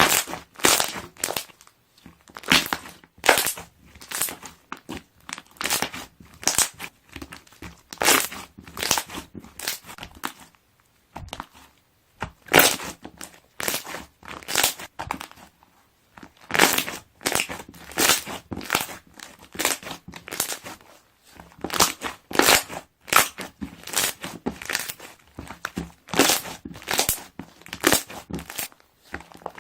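Balloon-type slime being pressed, trapped air bubbles popping in quick crackling clusters one after another at irregular intervals.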